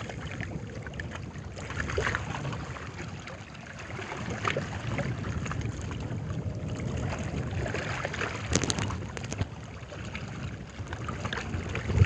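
Wind buffeting the microphone outdoors, a steady low rumble, with a few sharp clicks and knocks about two-thirds of the way through.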